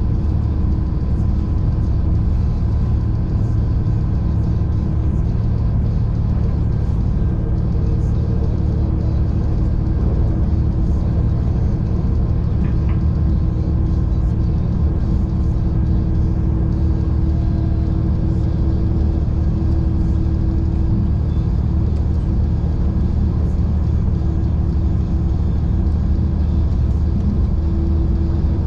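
V/Line passenger train running at speed, heard from on board: a steady, loud low rumble of engine and wheels on the track, with a faint steady hum above it.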